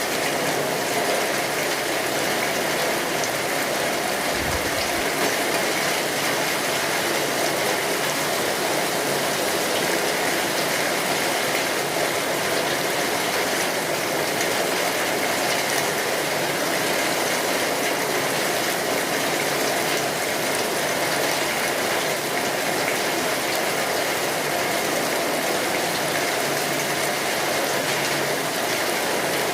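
Steady rain pattering on a tin roof, a dense, even hiss of drops, with a wood fire crackling.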